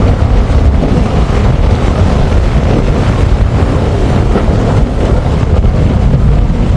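Strong wind buffeting the microphone: a loud, steady, rumbling rush with no clear tone in it.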